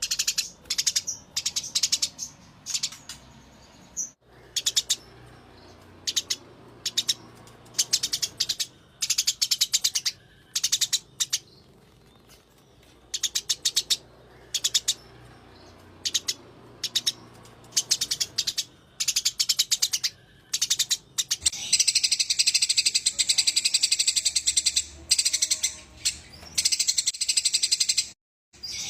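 Eurasian tree sparrows giving agitated fighting calls: short bursts of rapid, high chirping, then from about two-thirds of the way through one long unbroken rolling chatter.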